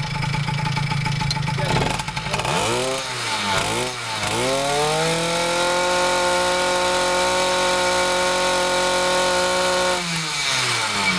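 Small two-stroke motorized-bicycle engine idling, blipped up and down twice, then revved and held at high revs for about five seconds, which the rider puts at 10,000 RPM, before dropping back to idle near the end. It keeps running evenly, with no sign of the magneto shorting out from the water squirted into it.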